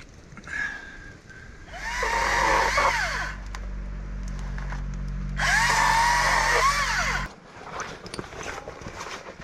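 A small motor runs for about five and a half seconds with a steady low hum, its whine rising and falling in two louder spells, then cuts off suddenly.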